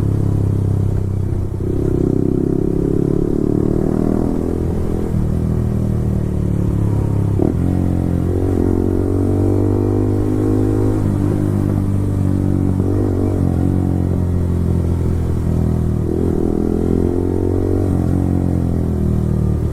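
Yamaha R15 V4's 155 cc single-cylinder engine running through a full-system Akrapovic exhaust while riding, its pitch holding mostly steady, with a short click and a change in the engine note about seven and a half seconds in.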